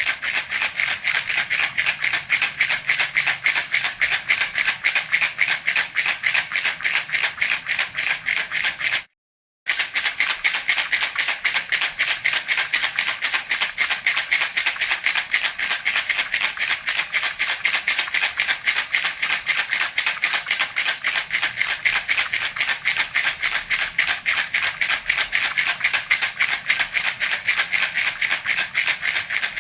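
Baby rattle (jhunjhuna) shaken in a fast, steady rhythm, with a brief break about nine seconds in.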